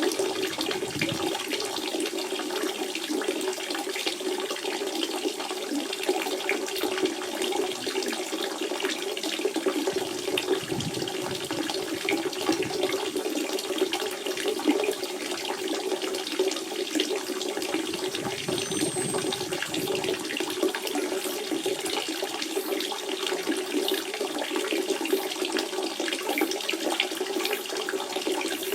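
Natural spring water flowing steadily, a continuous running-water sound.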